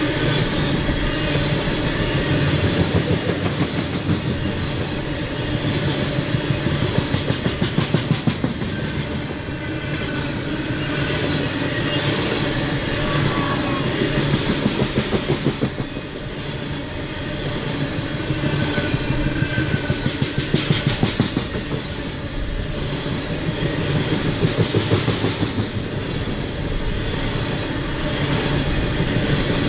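Freight train cars rolling past, the steel wheels clicking over the rail joints in quick runs every few seconds over a steady rumble.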